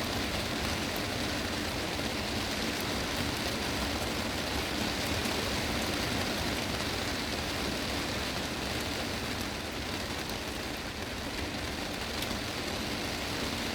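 Heavy rain drumming steadily on a glass greenhouse roof, an even hiss of countless drops with faint sharp ticks of single drops on the panes.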